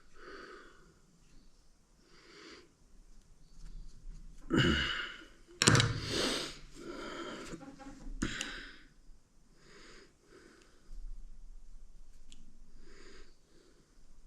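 A man breathing hard in repeated heavy breaths while straining to force a tight gasket into a tractor lift cylinder, with a couple of louder, sharper noises about four to six seconds in.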